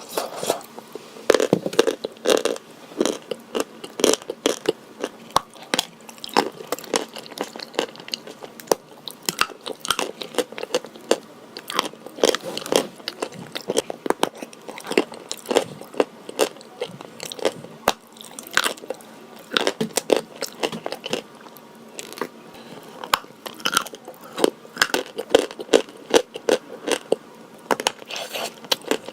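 Crunchy white edible chalk with a blue paste being bitten and chewed: a dense, irregular run of sharp crunches and crumbling crackles, several a second.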